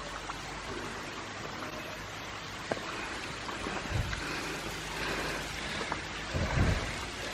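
Steady rush of running water from a small stream or cascade, with a couple of low thumps about four and six and a half seconds in.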